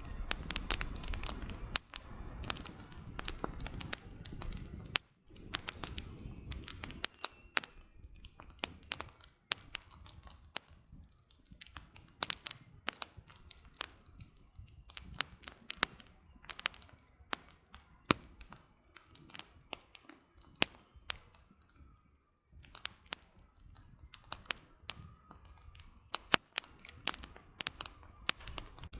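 Campfire with burning firewood crackling: many sharp, irregular pops and snaps, with a low rumbling of the flames during the first few seconds and again in patches later on.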